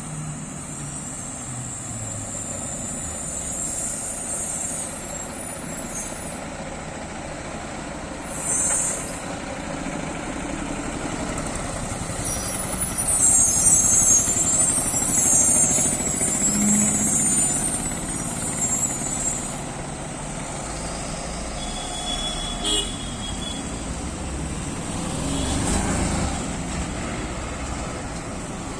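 Heavy truck traffic running on a mountain road, with horn toots. A loud high-pitched stretch runs for several seconds around the middle.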